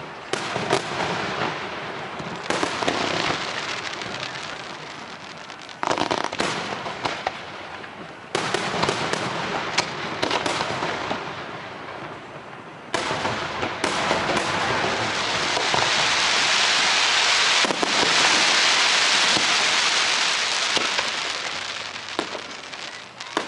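Fireworks display: shells bursting with sharp bangs every second or few. About halfway through comes a long, dense crackling hiss that swells and then fades near the end.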